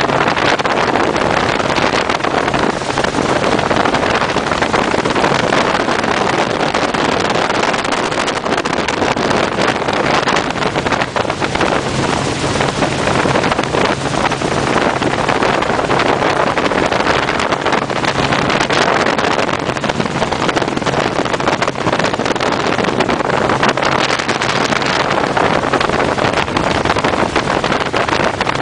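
Helicopter running: steady, loud engine and rotor noise with a low, even hum underneath.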